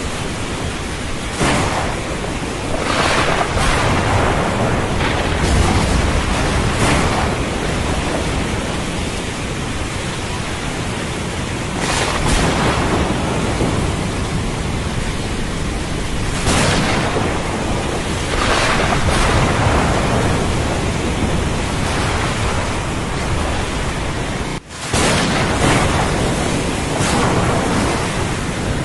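Thunderstorm with steady heavy rain and rumbling thunder, with louder crackling surges every few seconds. The sound drops out for an instant about four seconds before the end.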